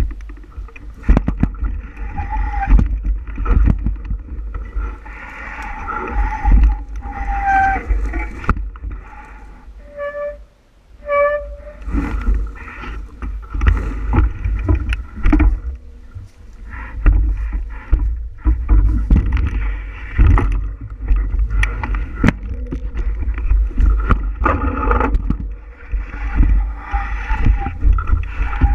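Wind buffeting the microphone of a bicycle-mounted camera while riding, with rattles and knocks from the bike over a rough trail surface. Two short squeals come about ten seconds in.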